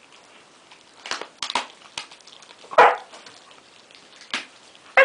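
Huskies giving two short barks, the louder one a little under three seconds in and another at the very end, among several sharp snaps and clicks.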